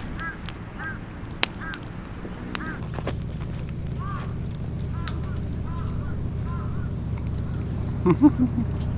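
A bird calling in a run of short, arched notes, repeated many times, with occasional sharp crackles from a wood campfire.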